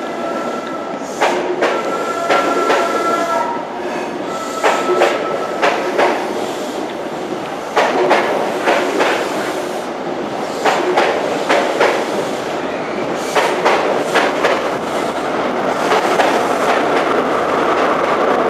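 An InterCity 125 High Speed Train rolling out of the station, its wheels clicking over the rail joints in repeated pairs under a steady rumble. A short high-pitched squeal from the wheels comes in now and then.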